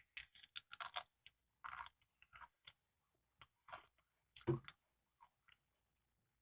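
Close-up chewing of a custard-filled bungeoppang (fish-shaped pastry), irregular soft crunches and moist mouth clicks, with a short hum about four and a half seconds in.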